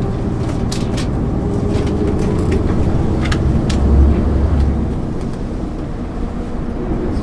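1999 MAN ÜL 353 intercity bus under way, its engine and driveline droning low and steady as heard on board, with a few light rattles. The drone swells briefly about four seconds in.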